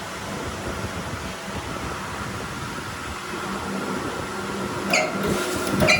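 Steady machine hum with a faint steady tone, broken by two short ringing clinks near the end, about a second apart.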